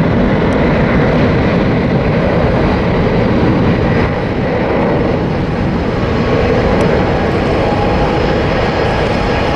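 Jet airliner at takeoff thrust on its takeoff roll: loud, steady engine noise without a break.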